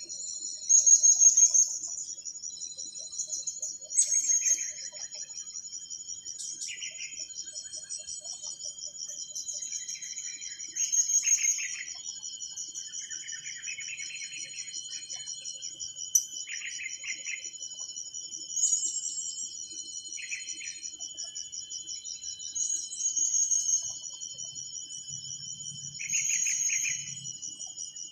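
A steady, fast-pulsing insect trill, high-pitched, with short bird calls breaking in every few seconds.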